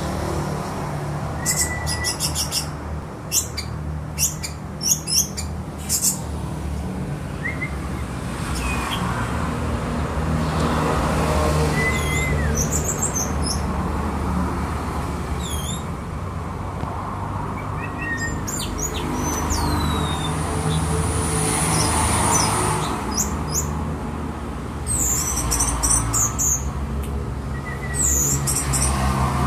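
Orange-headed thrush (anis merah) singing: scattered bursts of high chirps, rapid trills and quick gliding whistles with pauses between, over a steady low background hum.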